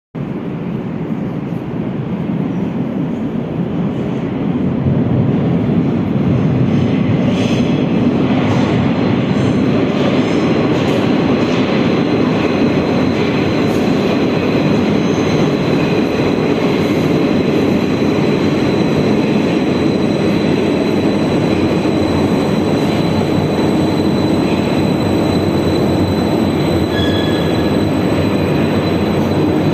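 Minsk Metro train running through the tunnel, heard from inside the car: a dense rail rumble that grows louder over the first five seconds, then holds steady, with a faint steady high whine above it.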